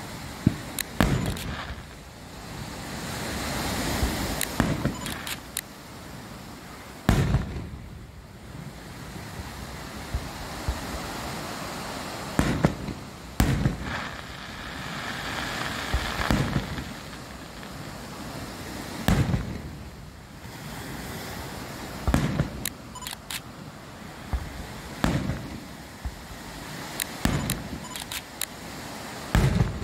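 Aerial fireworks shells bursting: about a dozen sharp bangs a few seconds apart, some with a short ringing tail, over a steady rushing background noise.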